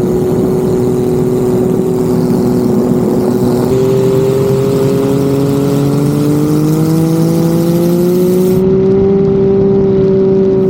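Turbocharged 4.0 L Ford Barra straight-six race-boat engine running hard under load. Its pitch steps up about four seconds in, climbs steadily as it accelerates, then holds high and steady.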